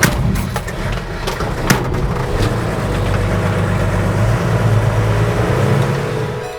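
HJ47 Toyota Land Cruiser's six-cylinder diesel engine running steadily, with a few sharp clicks in the first couple of seconds.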